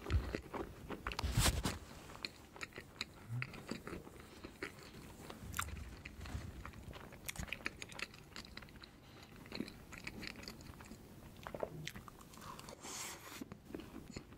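Close-miked chewing of a large mouthful of layered crepe cake: a run of small smacking mouth clicks, with a louder cluster about a second in.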